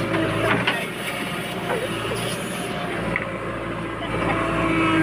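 Heavy diesel machinery (a JCB and a tractor) running steadily.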